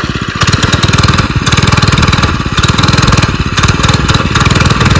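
Motorcycle engine running close by, the throttle blipped so that it swells and eases several times. Its rider says it should be louder.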